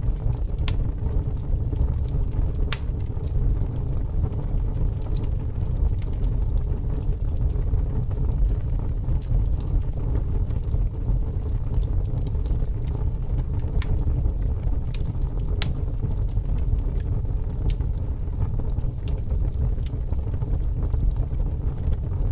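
Fire burning: a steady low rumble with scattered, irregular sharp crackles and pops.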